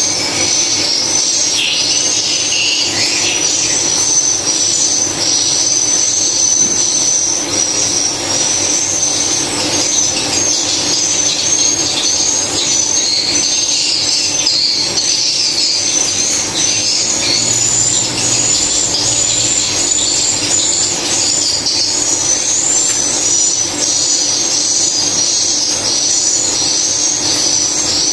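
Dense chorus of swiftlet chirps and twitters, many high calls overlapping without a break, over a steady low hum.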